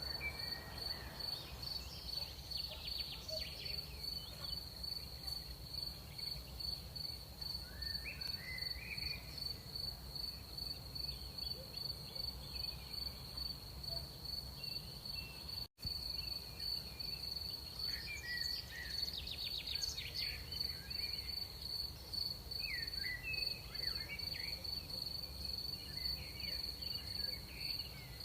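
Night crickets trilling in a steady, fast-pulsing high chirr, with scattered short chirps above a low background rumble. The sound cuts out completely for an instant about halfway through.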